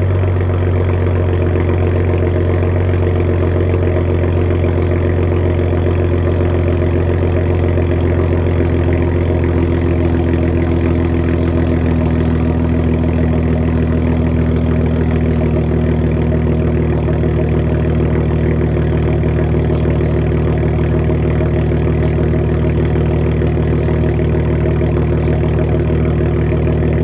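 BMW 335i's N55 turbocharged inline-six idling steadily through a muffler-deleted exhaust.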